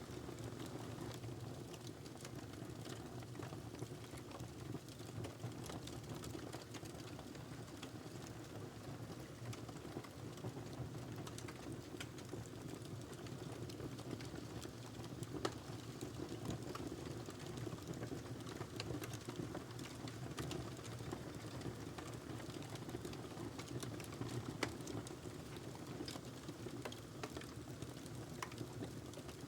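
Wood fire burning in a fireplace: a steady low rumble of flames with irregular small crackles and snaps, and a couple of louder pops about halfway and near the end.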